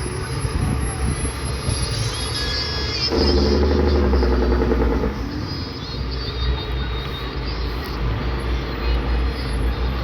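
Motor vehicle engines running with a steady low rumble. A louder engine drone comes in about three seconds in and lasts about two seconds.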